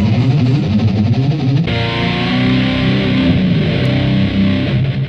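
Distorted electric guitar playing a loud, sustained riff, held steady from a couple of seconds in and fading out at the end.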